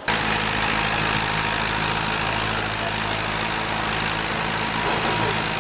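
Tractor engine running at a steady speed, a low even hum under a hiss, starting abruptly at a cut.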